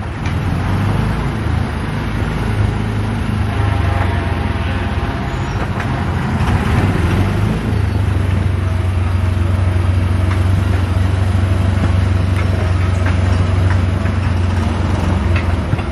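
Small gasoline engine of a Disneyland Autopia ride car running steadily, a low hum that grows a little stronger about halfway through.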